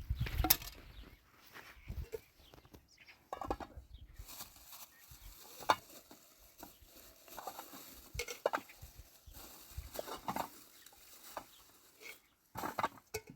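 Short animal calls at irregular intervals, mixed with scattered knocks and rustles.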